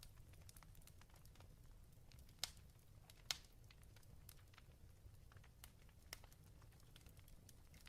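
Faint crackling of a wood fire: scattered small pops and snaps over a low steady rumble, with two sharper pops about two and a half and three and a half seconds in.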